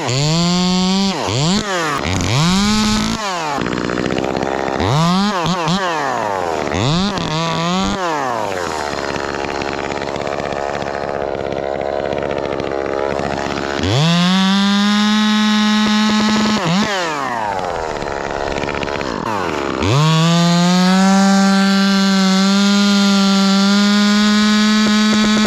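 Echo 2511T top-handle two-stroke chainsaw, ported, with a 1/4-inch-pitch conversion. It is revved in a series of quick throttle blips, runs lower for several seconds, then is held at full throttle twice for a few seconds at a stretch.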